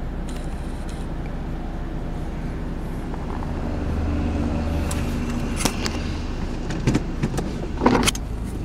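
Car engine idling steadily, heard from inside the cabin. In the second half come a few sharp clicks and knocks, the loudest just before the end.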